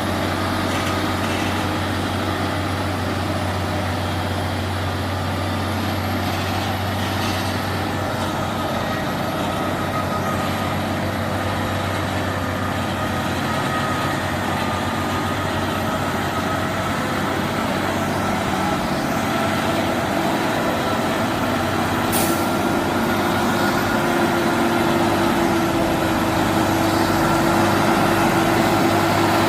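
Heavy truck engine running steadily with a faint whine that rises a little and grows slightly louder toward the end; a short high hiss about three quarters of the way through.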